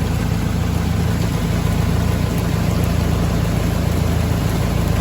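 Tractor engine running steadily, with an even hiss over it.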